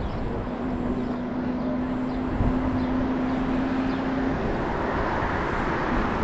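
Wind and road noise rushing over the camera microphone of a moving Super73 electric bike. A steady low hum sounds from about half a second in until about four seconds, with a low thump about two and a half seconds in.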